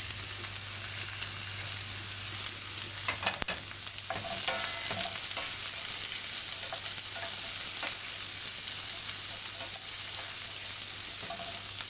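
Chopped onion sizzling steadily in hot sesame oil with mustard seeds, cumin, garlic and dried chillies, stirred with a spatula that knocks against the pan a few times about three seconds in.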